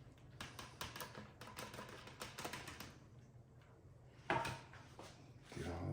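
Faint handling of a large plastic marinade bag holding chicken and marinade: a quick run of small clicks and crackles, then a louder click about four seconds in and another near the end.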